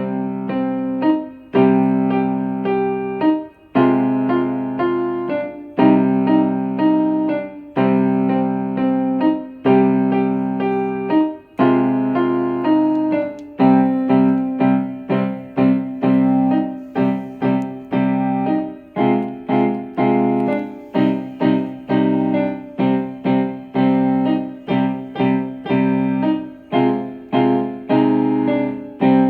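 Solo piano playing a short piece: slow, held chords at first, then from about halfway a steadier run of shorter notes, each struck and dying away.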